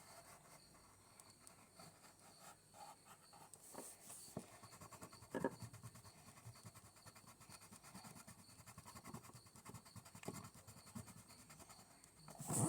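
Faint, rapid scratching strokes of a brown colouring pen being rubbed back and forth in colouring, with a few soft knocks.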